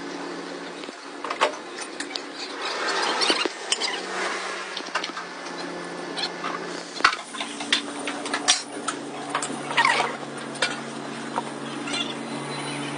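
Metalworking shop sounds: irregular sharp clinks and knocks of metal parts and some scraping, over a steady low machine hum that shifts to a lower pitch about seven seconds in.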